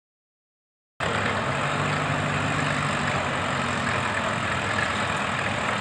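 Silence for about a second, then a tractor engine idling cuts in suddenly, with a steady low hum over a broad rumble.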